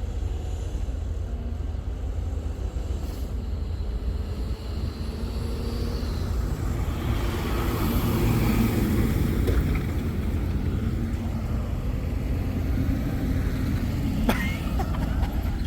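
Steady low vehicle engine rumble, swelling louder for a few seconds about halfway through, with a single sharp click near the end.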